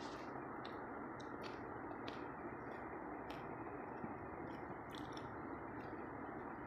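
Mouth sounds of a person eating jalebi: short wet smacks and clicks while chewing, coming irregularly about once or twice a second, over a steady hiss.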